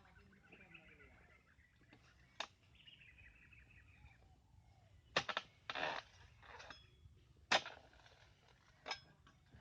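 Sharp chopping strikes of an oil palm harvesting chisel (dodos) cutting at a palm, about half a dozen spaced a second or so apart through the second half, one drawn out near the middle. A bird calls with falling whistled notes in the first few seconds.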